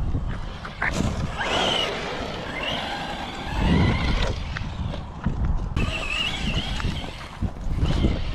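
Arrma Vorteks 223 RC stadium truck's Hobbywing MAX10 G2 brushless motor (2400kV) whining in bursts, the pitch rising and falling with the throttle, over a steady low rumble.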